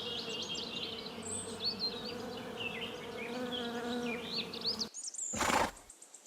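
Bees buzzing in a steady, pitched hum, with high chirps over it. The buzzing cuts off about five seconds in, followed by a brief rush of noise.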